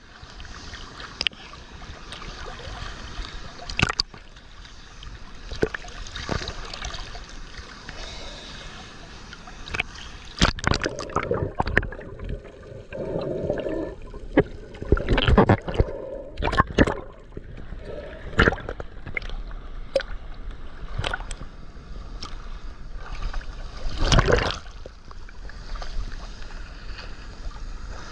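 Steady rush of falling water from a waterfall, broken by irregular knocks and bumps and a loud gust of wind on the microphone near the end.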